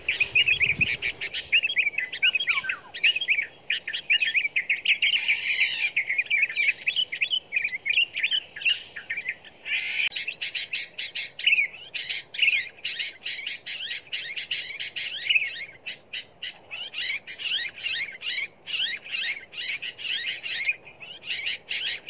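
Small birds chirping rapidly and without pause, a dense run of short high chirps that grows denser about ten seconds in.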